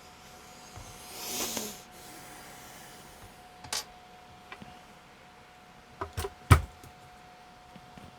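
Scattered clicks and knocks, the loudest a dull knock about six and a half seconds in, over a faint steady tone. A short swishing noise falls in pitch about a second and a half in.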